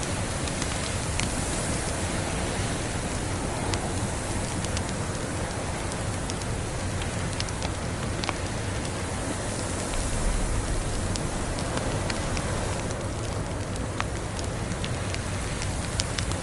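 Wood fire crackling, with sparse sharp pops scattered through, over a steady hiss of storm noise. A brief low rumble comes about ten seconds in.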